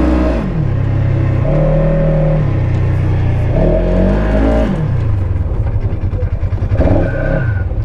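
Polaris RZR side-by-side engine revved up and down several times, holding each pitch for about a second, then settling into a steady idle with an even low throb, with one more short rev near the end.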